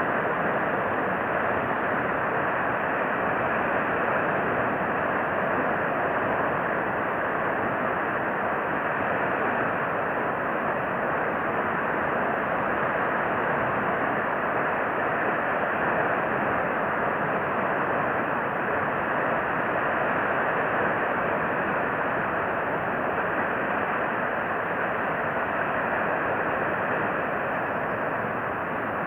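Steady, even rushing background noise with no distinct calls or other events.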